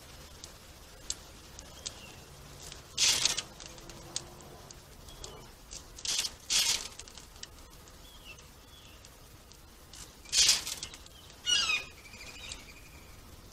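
Small birds at a seed feeder: five short, loud rustling noises, the second and third close together, with faint short chirps scattered between.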